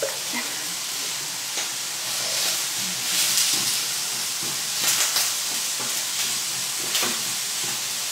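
Onions frying in olive oil in a pan, a steady sizzle, with a wooden spatula stirring them and clicking against the pan a few times.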